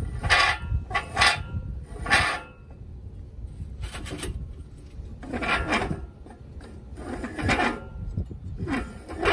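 Irregular rasping, rubbing strokes, about seven of them, each under a second long, over a steady low rumble.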